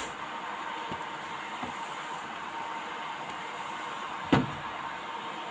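A steady hiss with one sharp knock about four seconds in and a fainter one near the start, typical of kitchenware being handled.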